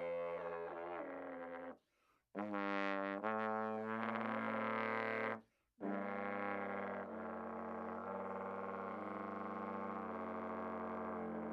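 Trombone played while the player sings into it at the same time (multiphonics): two pitches sound together with a rough, buzzing quality. It comes in three held phrases, with short breaks about two seconds in and about five and a half seconds in.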